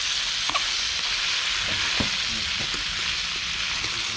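Ackee with sweet peppers and onions sizzling steadily in hot oil in a metal pan over a wood fire while it is stirred with metal tongs, with a couple of sharp clicks about half a second and two seconds in.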